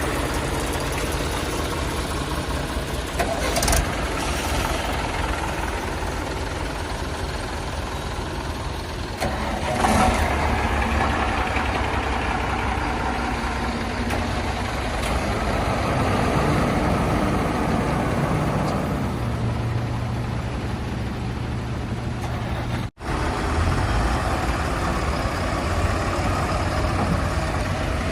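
Heavy diesel machinery engine running steadily, with short clattering knocks about four seconds in and again about ten seconds in. The sound drops out for an instant about 23 seconds in.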